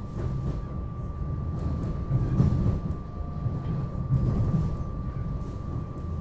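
SEPTA electric regional rail car heard from inside while running: a steady low rumble of wheels and running gear on the track, with a thin steady high tone over it.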